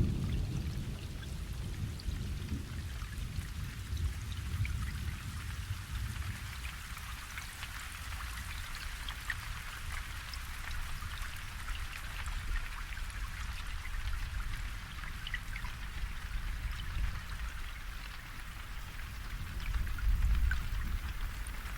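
Steady rain: an even hiss of many drops with single drops ticking through it, over a low rumble that swells briefly near the end.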